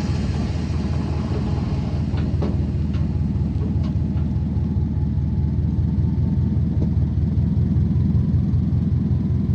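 Steady low rumble of a car's engine and road noise heard from inside the moving car, with a few faint ticks a couple of seconds in.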